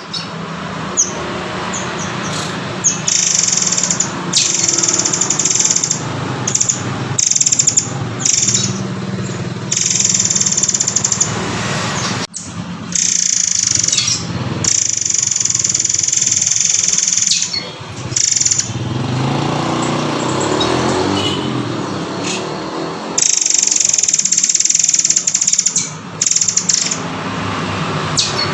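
Murai air (murai kopi) songbird singing: high-pitched phrases of one to three seconds, repeated several times, over a steady low background noise.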